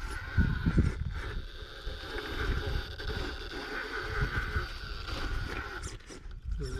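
Gusting wind buffeting the microphone in uneven low rumbles, with a faint steady whine running underneath.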